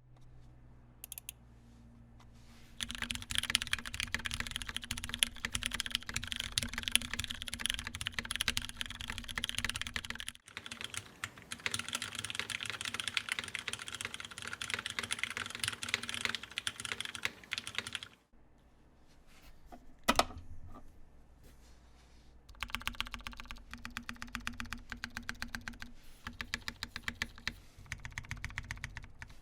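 Typing on a CMGTKL mechanical keyboard with lubed Cherry MX Brown tactile switches, a polycarbonate plate, gummy o-ring mount and CRP R4 keycaps. Rapid, continuous keystrokes start about three seconds in and run with a brief break to about two-thirds of the way through. After a lull with one sharp loud click, typing resumes near the end in a more evenly spaced rhythm.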